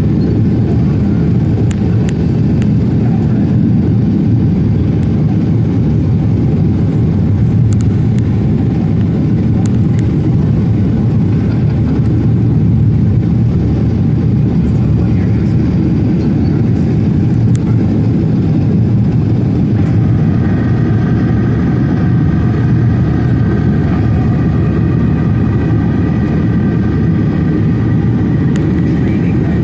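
Passenger jet's engines and airflow during takeoff, a steady low rumble. About 20 seconds in, a set of steady higher tones joins it.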